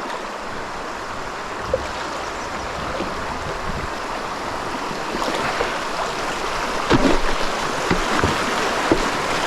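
River water rushing steadily past a rock in a riffle, growing slightly louder toward the end, with a few light knocks near the end.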